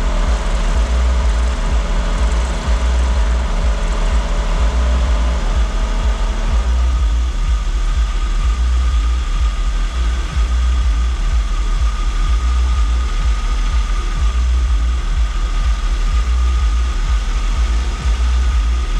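Car engine idling steadily with a heavy low rumble. A set of steady tones in the sound drops out about six and a half seconds in.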